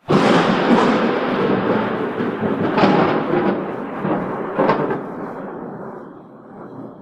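Thunder: a sudden loud clap, then a long rolling rumble with further cracks about three and five seconds in, slowly fading away.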